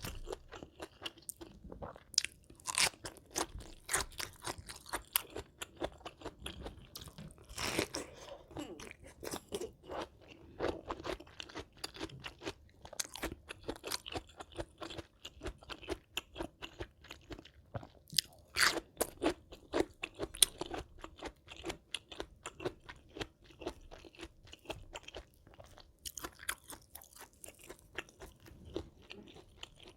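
A person chewing and biting crunchy food close to the microphone, with many irregular crunches.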